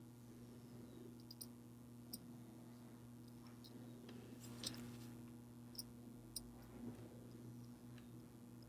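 Faint, sparse clicks of small metal watchmaker's tools on watch movement parts during reassembly, about five of them, the loudest about halfway through, over a steady low electrical hum.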